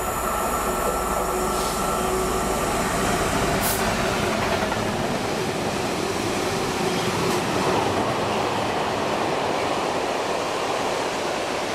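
Freight train of hopper wagons passing at speed: a steady rushing noise of wheels on rail, with a couple of brief sharp clicks.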